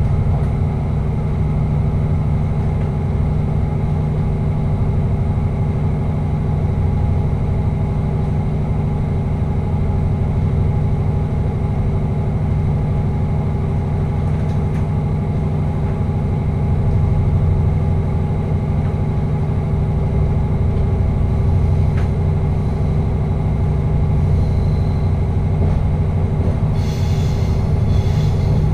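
Passenger train running through a tunnel, heard from inside the driver's cab: a steady low rumble with a constant hum. Near the end come a couple of short, high hissing bursts.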